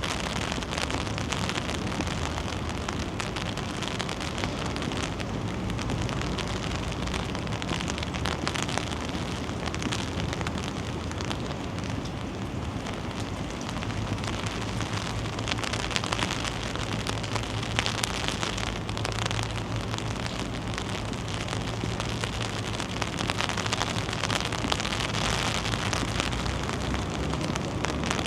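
Steady rain falling, with many small drops ticking close to the microphone. A low hum joins about halfway through and fades shortly before the end.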